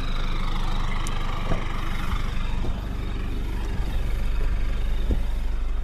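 Toyota Innova's 2KD diesel engine running steadily while the car drives, a low rumble through a side-exit exhaust pipe with no resonator.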